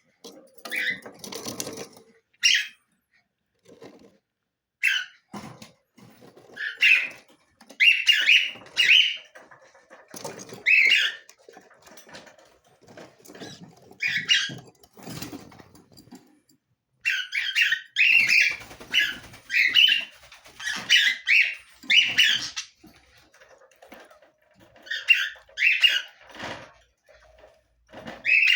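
Budgerigars chirping and squawking in short, irregular bursts of calls with brief pauses between them.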